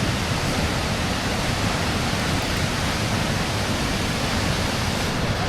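Waterfall pouring down into its pool, a steady, loud rush of falling water.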